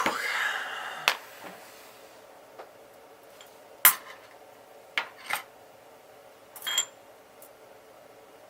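Small metal tools clinking and clicking on a workbench as they are picked up and set down: a brief rustle at the start, then five or so separate sharp clicks spread over several seconds, the loudest about four seconds in.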